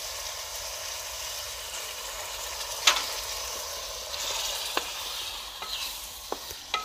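Chopped tinde (apple gourd) sizzling in oil and masala in an aluminium pot, stirred with a wooden spoon: a steady frying hiss with a few sharp clicks, the loudest about three seconds in.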